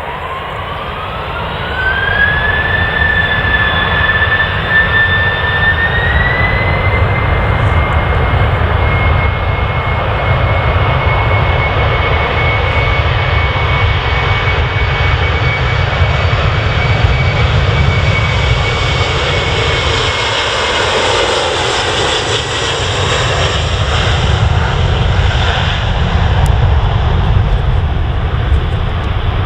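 Jet airliner's turbofan engines spooling up to takeoff thrust. A whine rises over the first two seconds, steps up again about six seconds in and holds, over a loud steady rush of engine noise. The whine fades about two-thirds of the way through while the rush of noise carries on.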